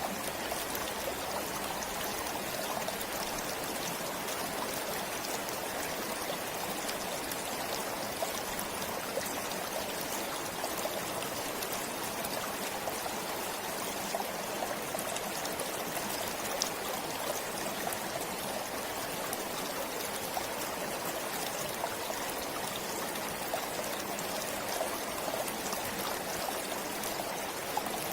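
A forest stream flowing and trickling steadily over stones, with small splashes and drips.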